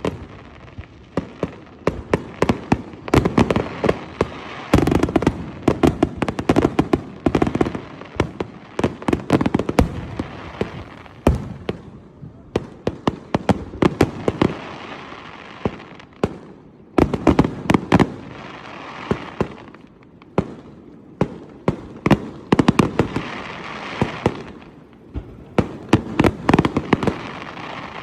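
Fireworks display: a dense run of sharp bangs and crackles, coming in surging volleys with brief lulls between them.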